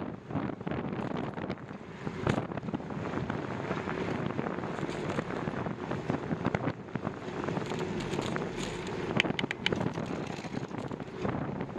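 Wind buffeting the microphone in a steady rough rush, with a few sharp clicks and knocks, one about two seconds in and a cluster near the end.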